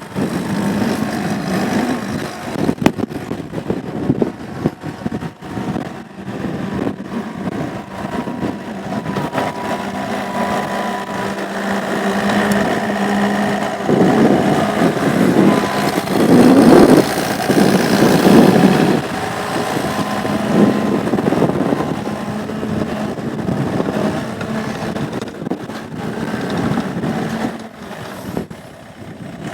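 Komatsu CK30 diesel track skid steer running, with its engine note steady for most of the time and louder for several seconds in the middle as it is worked through its functions.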